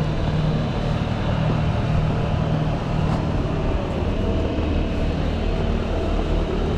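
Diesel engine idling steadily, an even low drone with no revving.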